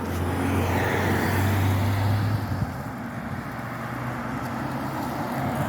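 A car passing on the road, its engine hum and tyre noise loudest over the first couple of seconds, then easing off.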